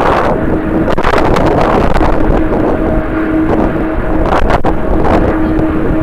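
Strong wind buffeting the microphone in gusts, a loud rumbling rush, with a steady low hum coming and going beneath it.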